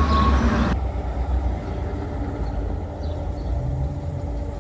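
A vehicle engine idling with a steady low rumble. The sound changes abruptly just under a second in.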